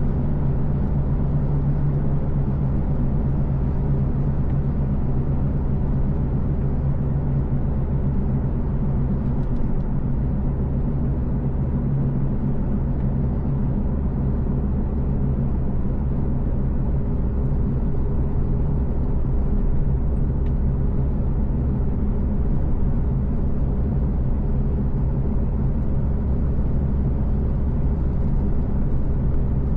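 Car driving at a steady speed: a constant low engine hum over road and tyre rumble.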